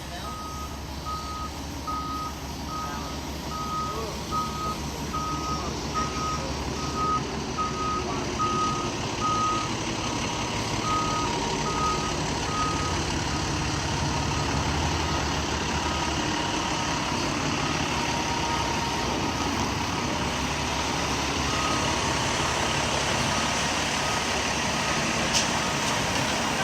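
Fire engine's reversing alarm beeping about twice a second over the low rumble of its diesel engine as the truck backs up. The beeping stops about halfway through, the engine eases a few seconds later, and the beeping resumes near the end.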